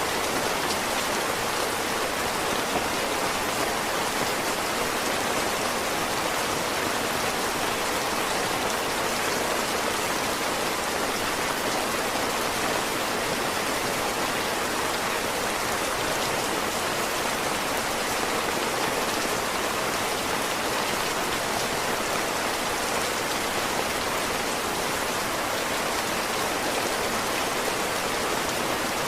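Heavy rain falling steadily, an even hiss of drops with no breaks or single events standing out.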